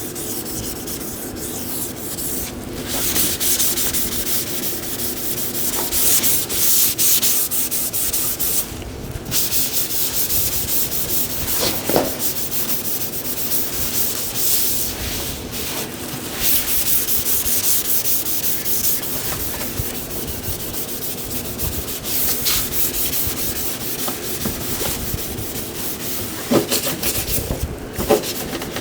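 Sanding on a car body panel: a steady, scratchy rubbing that breaks off briefly near three seconds and again near nine seconds in.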